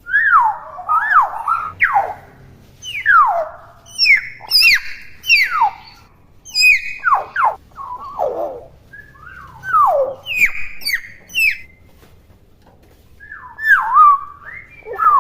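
Young hill myna giving its own natural calls: loud whistled notes that mostly fall steeply in pitch, in quick groups of two or three with short pauses between, mixed with sharp high clicks. These are the bird's natural calls, not mimicked speech.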